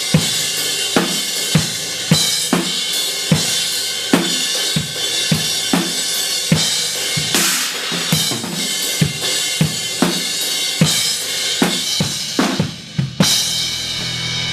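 Acoustic drum kit played to a steady beat, kick and snare hits about twice a second under ringing cymbals, with cymbal crashes about 7 s and 13 s in.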